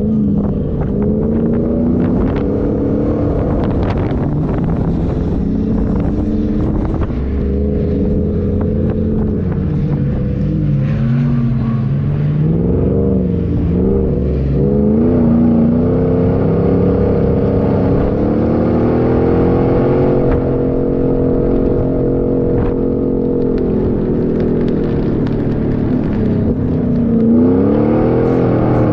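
An off-road 4x4's engine running under load, its pitch rising and falling over and over as the throttle is worked up and down, with scattered knocks and rattles.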